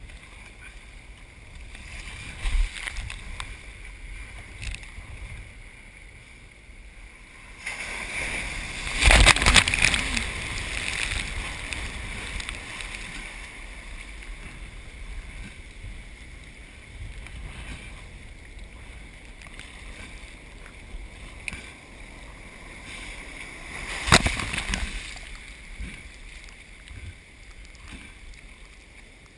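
Steady rush of heavy surf and wind, with two loud crashing splashes of breaking water, a longer one about nine seconds in and a shorter one near the two-thirds mark.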